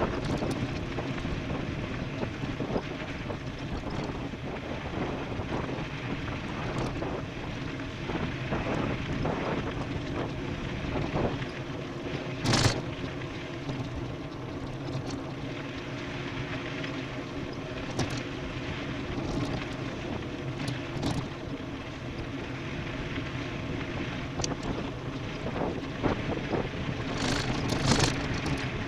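Wind rushing over the microphone and tyres on a dirt road during a fast e-bike descent, with sharp rattles and knocks from the bike over bumps, the loudest about halfway through and near the end.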